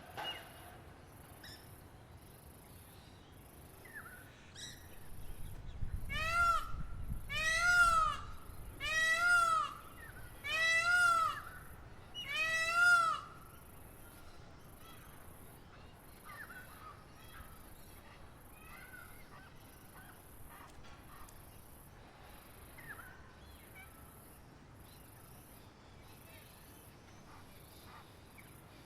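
A large bird calls five times in a row: loud, harsh, drawn-out calls about a second apart, each rising and then falling in pitch. Behind it, insects trill in steady, evenly spaced pulses and small birds chirp faintly now and then.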